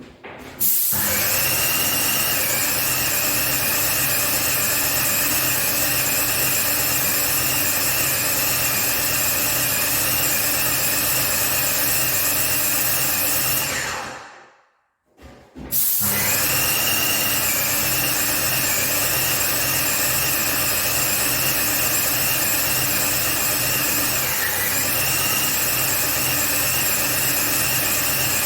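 Electric power tool motor spinning up and running steadily at high speed for about thirteen seconds, switched off, then started again and running on. Its pitch dips briefly twice, as if under load.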